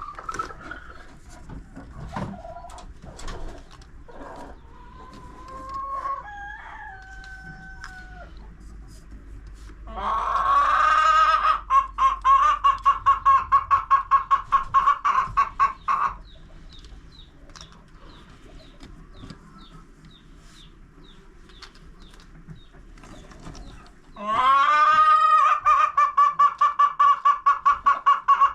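Chickens calling. Twice, a loud call opens with a rising note and runs into a fast, rhythmic string of short pulses lasting several seconds: once about ten seconds in, and again near the end. Quieter clucks and clicks come between them.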